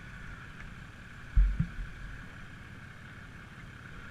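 Dirt bike being ridden, heard as a steady muffled rushing noise, with two heavy low thumps close together about a second and a half in.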